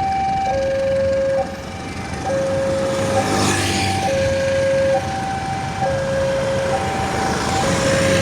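Railway level-crossing warning alarm sounding a steady two-tone ding-dong, a high and a low note alternating at a bit under a second each, over road and engine noise. A vehicle whooshes past about three and a half seconds in.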